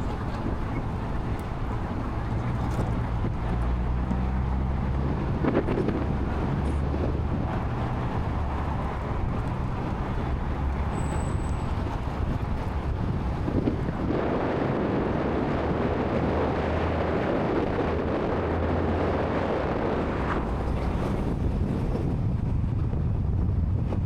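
Car engine running at low city-driving speed, a steady low hum whose pitch shifts in steps as the revs change, with tyre and road noise that swells about halfway through.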